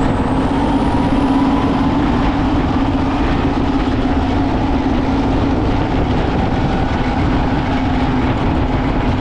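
Heavy farm tractor's diesel engine running steadily under load, with a faint high whine rising during the first two seconds.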